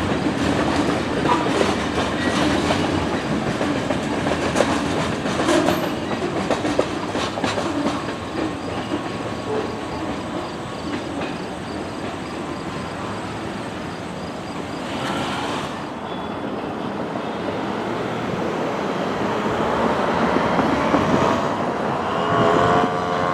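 Railroad cars of a freight train rolling through a grade crossing: a steady rumble with the clickety-clack of wheels over rail joints, easing off about halfway through. Near the end an engine rises in pitch as it speeds up.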